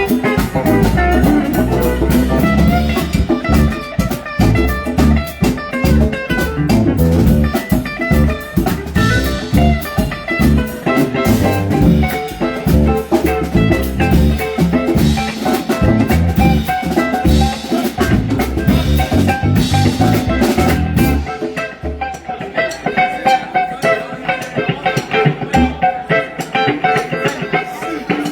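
Live rock band playing, with electric guitar over a drum kit and bass. About three-quarters of the way through, the heavy low end drops out and the band thins to guitar and lighter drums.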